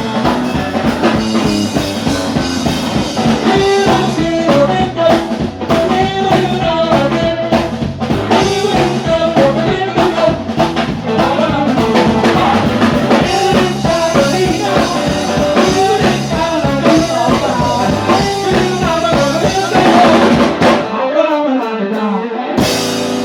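Live blues band playing with a full drum kit and a bending lead line over it. The bass and drums drop out near the end, and one last short hit follows just before the close.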